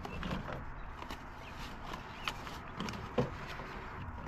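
A few light clicks and knocks of food and utensils being handled while breakfast is made, over a steady background rush.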